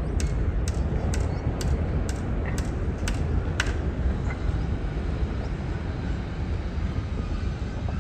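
Low, steady rumble of a four-engine Ilyushin Il-76 jet on its takeoff run and climb-out, easing slightly toward the end. A faint regular ticking, about two ticks a second, runs over it for the first half.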